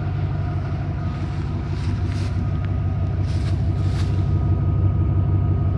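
Ford F-150's 5.0-litre (302) V8 idling steadily, a low, even fluttering hum. The engine has an exhaust leak, which the owner spotted by smoke coming from near the engine.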